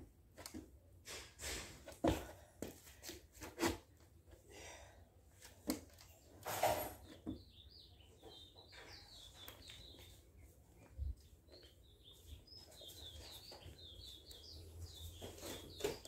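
A few scattered knocks and thumps, then a small bird chirping in quick, repeated short notes from about eight seconds in.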